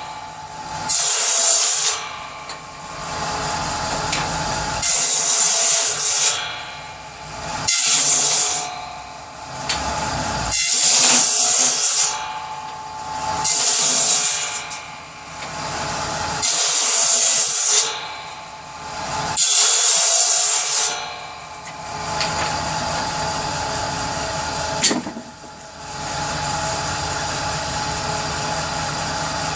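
Power saw cutting small pieces of wood for kindling: about seven cuts, one every two to three seconds, each a bright, high-pitched whine lasting about a second over the saw's steady running. After about 21 seconds it runs on without cutting, with one short knock near 25 seconds.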